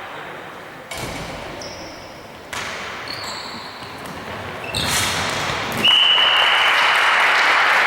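Tchoukball being played in a sports hall: the ball lands with sharp thuds a few times, with short high squeaks between them. About six seconds in, applause breaks out together with a steady high tone.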